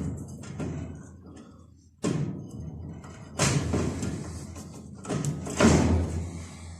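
Thuds and scraping clatters of tools and metal engine parts being handled, about five separate knocks over several seconds.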